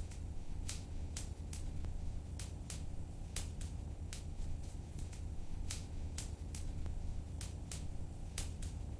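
Wood fire in a fireplace crackling, with irregular sharp pops about two a second over a low, steady rumble of flame.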